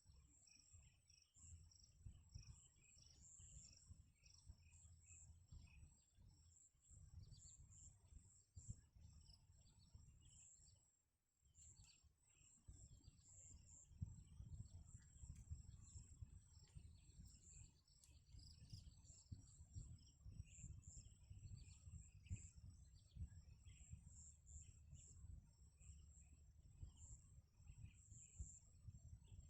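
Near silence: faint outdoor ambience of continuous high insect chirring over a low rumble of wind on the microphone, which drops away briefly about eleven seconds in.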